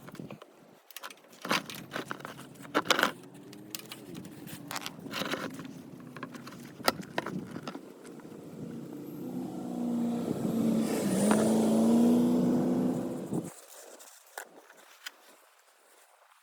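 Sharp metal clicks, knocks and scrapes of tools being handled under a motorcycle. Then a humming, engine-like sound builds for about five seconds and cuts off suddenly.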